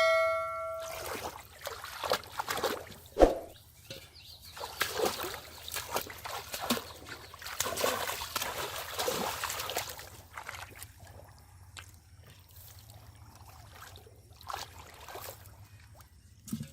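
Pond water splashing and sloshing in irregular bursts, as hands grab and churn through shallow muddy water after fish. The splashing is busiest in the first ten seconds or so and then thins to a few scattered splashes. A bell-like ding rings out at the very start.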